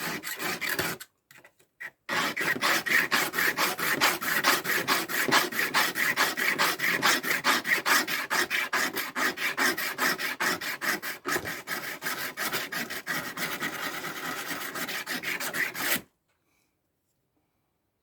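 Steel pocketknife blade scraped back and forth on an abrasive sharpener in quick, even strokes, several a second, to take the edge down a little. After a couple of short strokes it runs steadily from about two seconds in and stops abruptly near the end.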